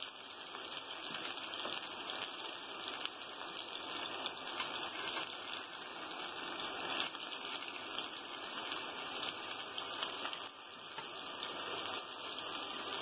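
Ground-beef patties sizzling steadily in hot oil in a frying pan as they are seared on both sides.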